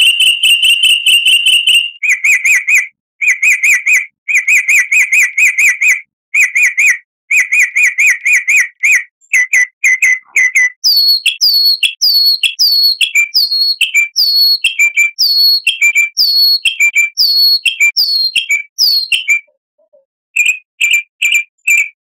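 Bird-lure recording of songbird calls: rapid chirped trills repeated in short bursts at one pitch, then from about halfway a run of quick falling whistles, each followed by a lower chip. After a short pause near the end, single sharp chips.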